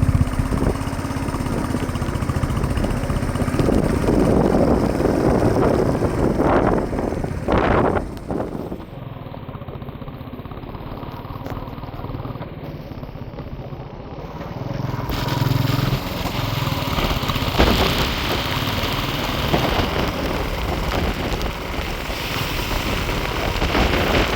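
Royal Enfield motorcycle running on the move, its engine a steady rumble under rushing wind noise. The wind noise swells louder a few seconds in and eases off for a while around the middle.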